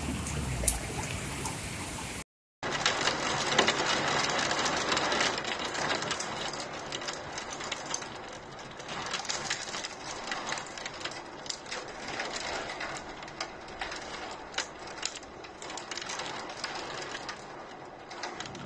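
Heavy rain during a thunderstorm, a steady hiss with many sharp drop ticks close by, heaviest just after a brief dropout about two seconds in and easing after that. A low rumble of thunder trails off in the first second.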